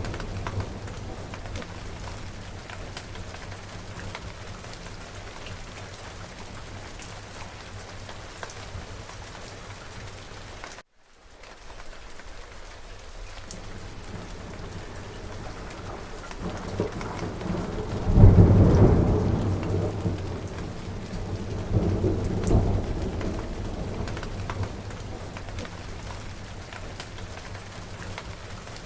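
Steady heavy rain with scattered drops pattering, under rolling thunder. The rain cuts out for a moment about a third of the way in. Then a long thunder rumble swells up, peaks about two-thirds of the way through, and a second, shorter rumble follows.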